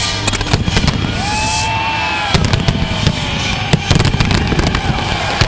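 Aerial fireworks going off in quick succession: a dense run of bangs and crackles over a low rumble, with a brief tone that rises and falls about a second in.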